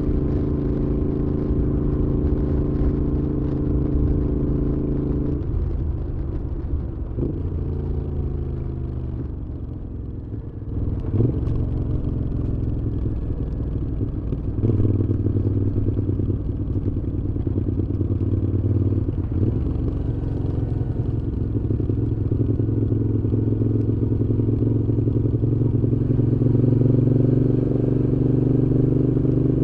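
Moto Guzzi V7's air-cooled transverse V-twin running through a Mistral aftermarket exhaust under way, its note stepping between gears a few times in the first half. It eases off about ten seconds in, then pulls louder from about fifteen seconds and builds steadily toward the end.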